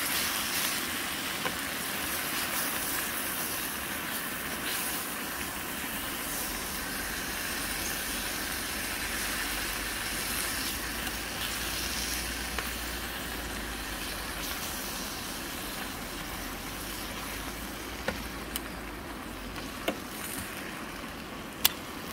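Portobello mushrooms and capsicum frying in a pan on a gas camping stove, a steady sizzle. A few sharp clicks near the end.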